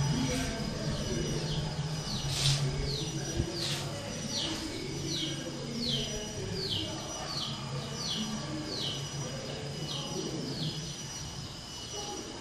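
A bird calling a long series of short, quickly falling notes, about three every two seconds, starting a couple of seconds in, over a steady low rumble.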